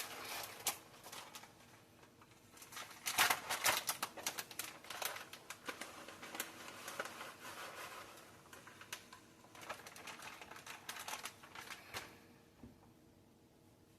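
A utensil clicking and scraping against a pot in rapid, irregular runs while the Alfredo sauce is stirred with cheese going in, dying away near the end.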